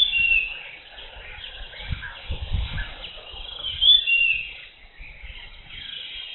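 Birds calling in tropical forest: a short, bright two-part call near the start and again about four seconds in, over a steady high hum of jungle insects and birds. Some low thuds or rumbles come about two to three seconds in.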